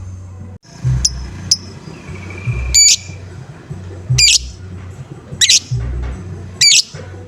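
Lovebird giving harsh 'ngoek' calls, one about every second and a quarter, after two short sharp chirps about a second in. Music with a steady low beat plays underneath.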